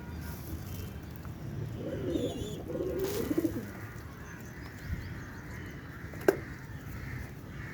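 Low, wavering bird calls for about two seconds, starting near two seconds in, over steady background noise. A single sharp click comes about six seconds in.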